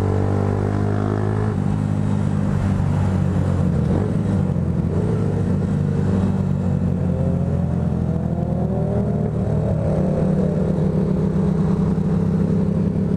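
Motorcycle engine running under way at fairly steady revs, its pitch stepping down about a second and a half in. A second engine note rises and falls about halfway through as another vehicle revs.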